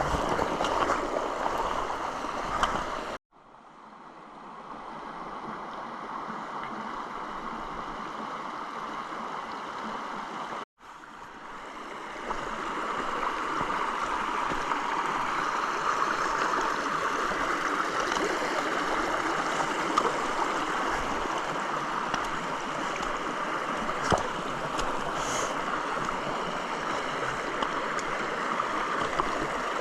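Stream water running: a steady rush of flowing water, cut off briefly twice by edits, at about three and eleven seconds in, with a few faint knocks later on.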